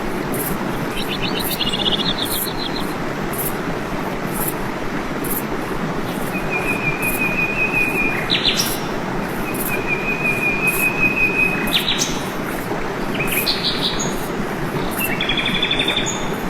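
Steady rush of a waterfall with birds calling over it: trilled chirps, two long level whistled notes, and short sharp upward calls.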